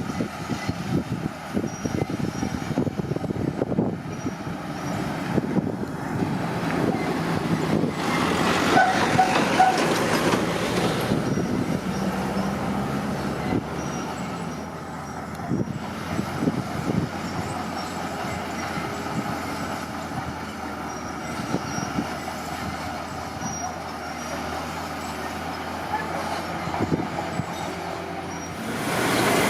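Komatsu D41P crawler bulldozer working: the diesel engine runs under load while the steel tracks clatter. About a third of the way in the engine note swells for a few seconds, then settles to steadier running.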